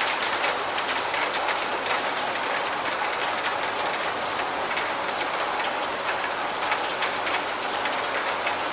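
Steady heavy rain, a dense even hiss with many close individual drops ticking on a hard surface.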